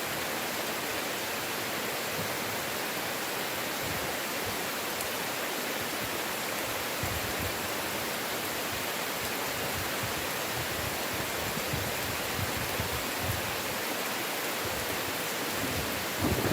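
Heavy rain falling steadily, an even hiss with no pauses, with occasional low rumbles from about halfway through. Right at the end a louder rumble of thunder begins to build.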